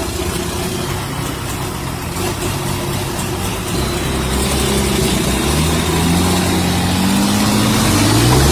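Heavy vehicle's engine running, its pitch climbing over the second half as it revs up.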